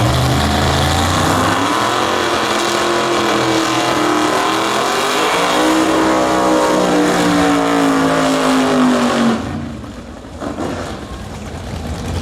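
A pro street muscle car's engine at full throttle on a drag strip, its pitch climbing, dipping briefly at what sounds like a gear change, then climbing again. About nine seconds in the sound drops away suddenly and stays quieter.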